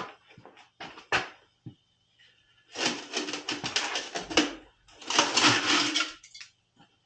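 Handling noise from hands-on work: a few scattered clicks and knocks, then two bursts of dense, rapid rattling clatter, each lasting a second or more, over a faint steady low hum.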